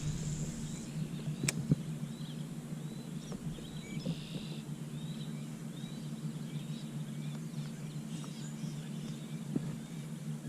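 Small birds chirping repeatedly over a steady low hum, with one sharp click about one and a half seconds in.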